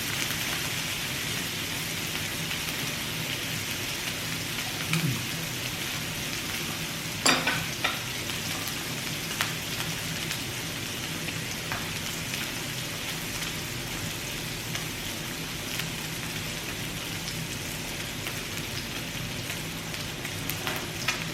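Pork belly sizzling in its grease on a tabletop grill, a steady frying hiss, with a couple of short clicks about seven seconds in.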